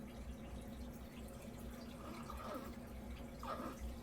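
Water trickling and dripping in an aquarium, over a steady low hum.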